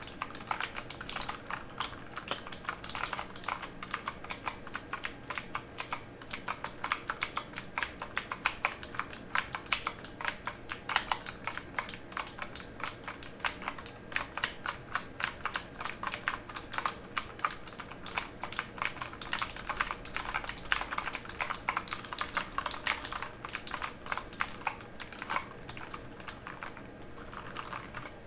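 Typing on a mechanical keyboard: a quick, uneven run of clacking keystrokes that thins out briefly near the end.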